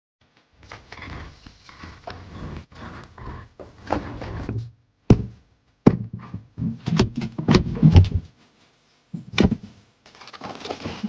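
A run of heavy thuds and knocks amid rough scraping and clattering, with the sharpest blows about five, six and nine and a half seconds in.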